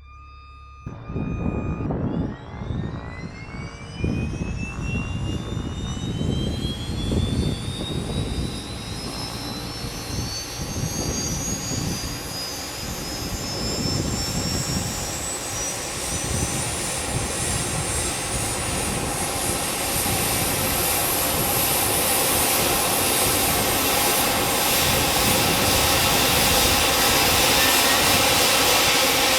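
Leonardo AW139 helicopter's Pratt & Whitney PT6C-67C turboshaft engine starting. About a second in, a turbine whine begins and climbs steadily in pitch as the engine spools up, over an uneven low rumble. It grows louder toward the end.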